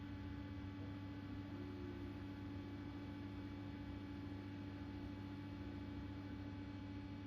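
Constructa Energy washing machine running early in a 60 °C cotton wash: a steady low hum.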